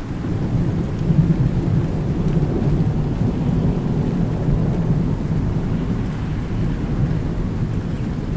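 Rolling thunder, a long deep rumble that is loudest about a second in and keeps rolling, over steady rain.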